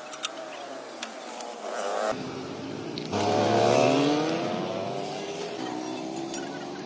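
Truck engine running and revving, its pitch rising and falling, with abrupt changes about two and three seconds in.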